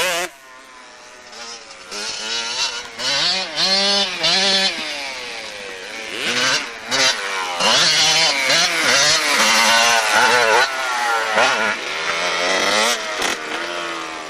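Small motorcycle engine running and being revved up and down again and again, quieter for the first couple of seconds and then louder.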